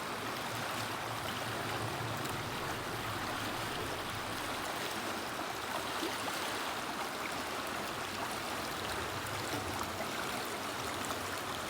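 River water flowing steadily with a soft rushing and gurgling.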